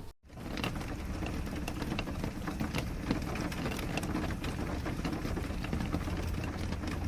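Close-miked rustling and crackling, dense with small irregular clicks, starting just after a brief cut-out at the very beginning.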